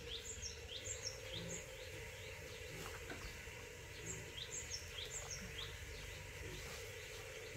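Small birds chirping in short, quick repeated calls, bunched in the first two seconds and again around four to five seconds in, over a steady low hum and outdoor background noise.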